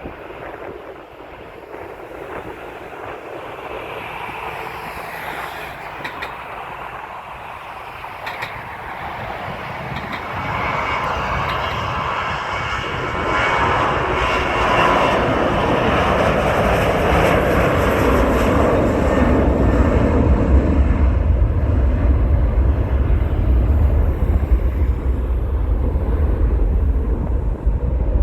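Twin-engine narrow-body jet airliner on its takeoff run, its engine roar growing steadily louder, with a deep rumble building over the second half as it draws near.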